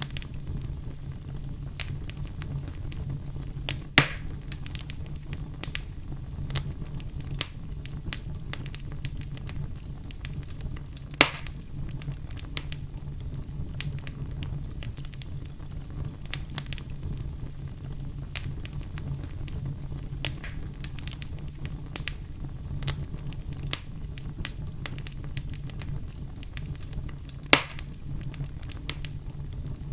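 Wood fire burning in a fireplace: a steady low rumble with constant crackling, and three sharp, louder pops at about 4, 11 and 27 seconds in.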